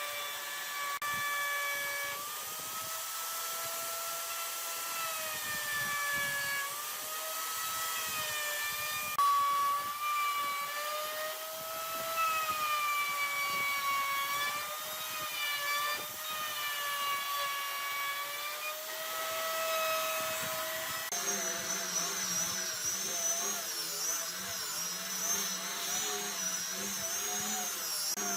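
Power tool motor running with a whine that sags and recovers in pitch as it is worked into the wood. About twenty seconds in, a different machine with a higher, wavering whine and a low hum takes over.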